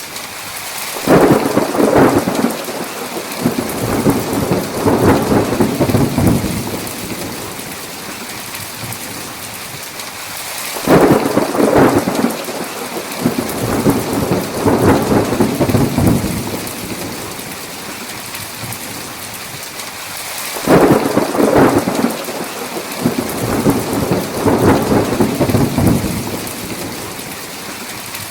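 Thunderstorm: heavy rain falling steadily, with three rolls of thunder about ten seconds apart. Each breaks suddenly and rumbles on for about five seconds.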